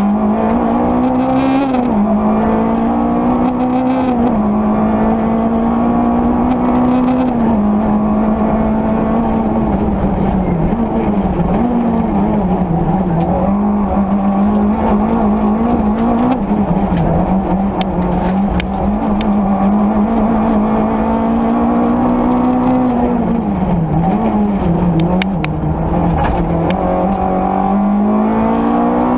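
Rally-prepared Peugeot 205 Rallye engine heard from inside the cabin, held at high revs, its pitch repeatedly climbing and then dropping sharply as the driver changes gear and lifts. A few sharp clicks late on.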